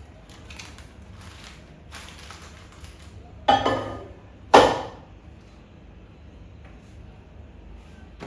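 Two sharp clunks about a second apart, each ringing briefly, after a few seconds of faint rustling and handling noise.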